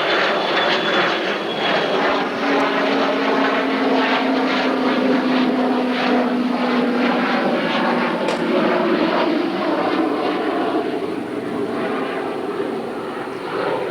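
Aircraft flying overhead: a steady, loud engine drone with a held tone that fades about halfway through, over a rhythmically pulsing rush of noise.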